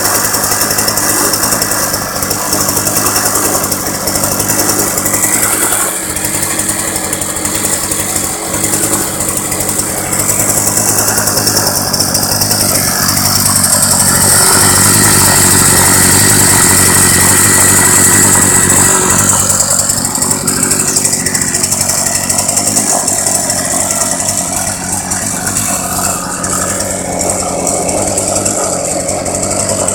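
Mach 1 scooter's small engine running on its first startup, with a rattle. It picks up a little and holds higher for several seconds in the middle, then settles back.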